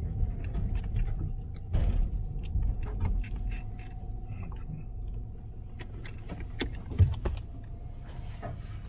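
Tunnel car wash equipment heard from inside a car: a steady low rumble with many scattered clicks and knocks, a faint steady hum, and a louder knock about seven seconds in.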